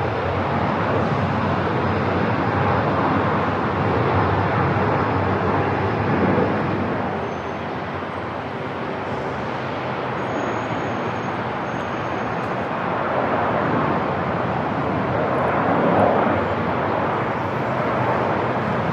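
Airport ambience: a steady, dense rushing noise of aircraft and terminal background that swells and eases a few times.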